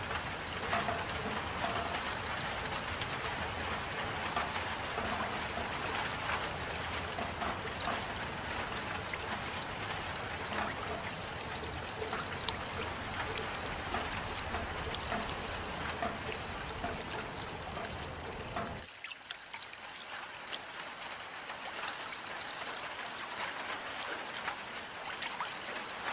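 Steady rain falling with a dense patter of individual drops. About two thirds of the way through, the low rumble under it drops away suddenly, leaving a thinner, higher hiss of rain and drops.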